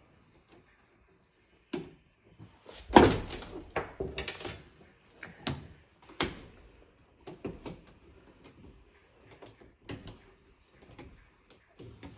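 Irregular knocks and clunks from hands working on a front-loading washing machine's door and rubber door seal, the loudest about three seconds in.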